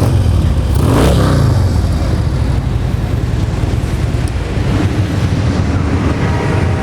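Harley-Davidson Twin Cam 96 V-twin with Vance & Hines exhaust idling with a steady low rumble. About a second in, a brief swell rises and falls over the idle.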